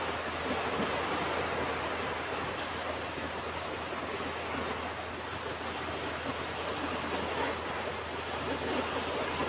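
Ocean surf washing ashore: a continuous rush of breaking waves that swells gently in loudness.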